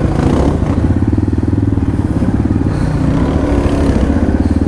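Dirt bike engine running at a steady throttle, heard close up from the bike being ridden, a rapid even firing beat with no clear revving up or down.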